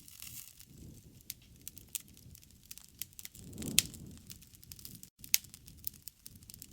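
Wood campfire crackling, with scattered sharp pops over a low rumble of flames; the loudest pop comes a little past halfway with a swell of rumble, and the sound cuts out for an instant about five seconds in.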